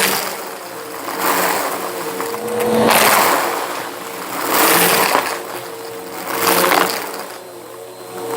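Bissell vacuum cleaner running with a steady motor hum while its brushroll crunches debris. The crunching swells and fades in repeated passes, about every two seconds.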